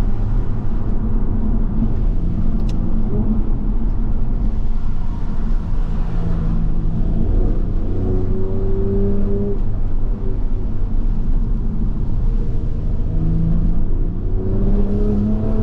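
Toyota Supra MK5's turbocharged inline-six running under load over steady road noise, its engine note climbing twice as the car accelerates and easing in between.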